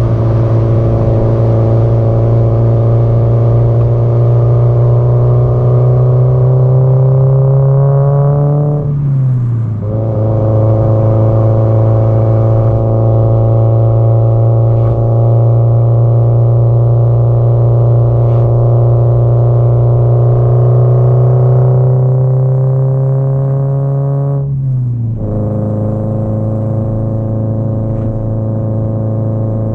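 Exhaust of a Subaru Impreza WRX STI (GDB-E) with its turbocharged flat-four, pulling steadily under acceleration with the pitch slowly rising. About nine seconds in, and again near the end, the pitch drops sharply with a brief dip in loudness, as in an upshift, and then the note settles into a steady pull again.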